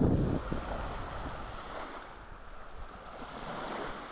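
Surf and wind on a beach, with wind buffeting the microphone. A loud low rush comes right at the start and fades within half a second, leaving a steady wash of noise.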